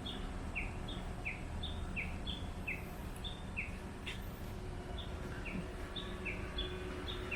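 A bird calling over and over: a short falling note repeated about every two-thirds of a second, with a fainter, higher note between them. A steady low rumble lies underneath.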